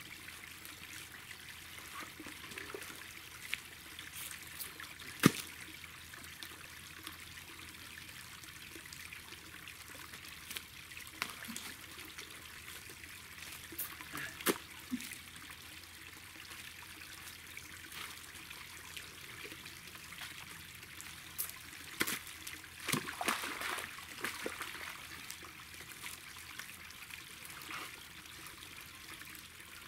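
Water trickling steadily through a leaking earthen dam. A few sharp knocks or splashes break in, the loudest about five seconds in and a cluster of them later on.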